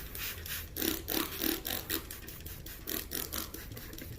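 Bissell stain remover being applied and worked into a dried chocolate stain on carpet: an even, rapid series of short hissing strokes, about five a second.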